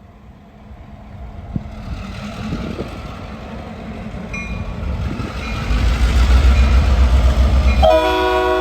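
Diesel freight train approaching, its rumble growing steadily louder, with heavy wind rumbling on the microphone. Near the end the locomotive's horn starts to blow a steady multi-note chord.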